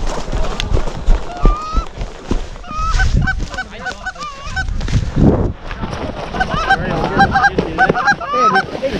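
Canada geese honking: many short, quick honks in runs, with a low rumble of wind or handling underneath.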